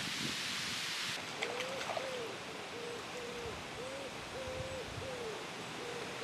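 A bird calling a long run of short, low notes, all at one pitch, about one or two a second, over wind noise on the microphone that drops a little about a second in.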